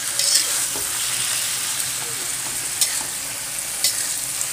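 Stir-fried Japanese papaya (chaya) leaves sizzling steadily in a wok, the dish cooked through, with a few sharp scrapes and clicks of the spatula against the pan as the greens are scooped up.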